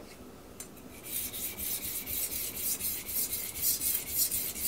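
Steel knife blade stroked back and forth on a wet Finnish slate sharpening stone, starting about a second in: a rapid, even scraping at about three strokes a second, raising and moving the burr.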